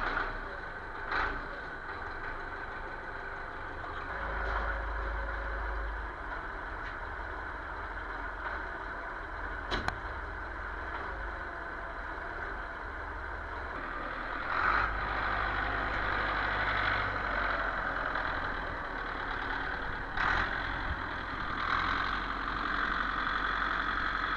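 A tractor's diesel engine running steadily, its low rumble rising a little now and then, with a few brief knocks.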